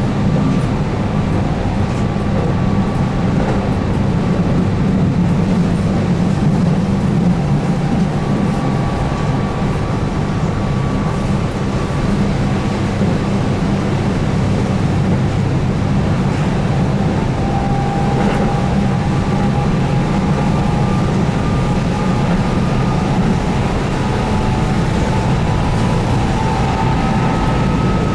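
Keihan 8000 series electric train running at speed, heard from inside the car: a steady low rumble of wheels on rail with a faint whine from the DC traction motors under field-added excitation control, the whine rising slightly near the end.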